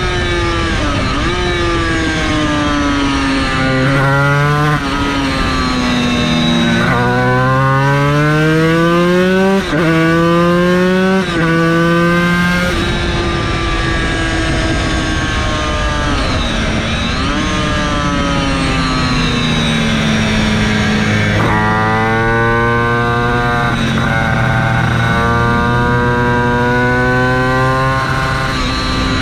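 Yamaha TZ250 two-stroke racing engine at full throttle on track, rising in pitch through several quick upshifts in the first dozen seconds. It then eases off with the pitch falling and wavering, and pulls up again through more shifts near the end.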